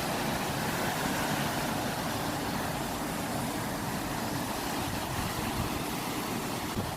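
Ocean waves washing steadily, an unbroken noise with no single wave breaking out.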